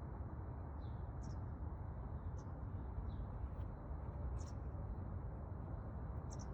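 Short high bird chirps, about one a second, over a steady low rumble.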